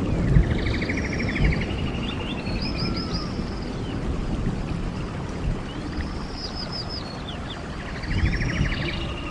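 Steady rush of a flowing stream with a songbird singing the same phrase twice, each time a rapid trill and a run of quick falling whistled notes.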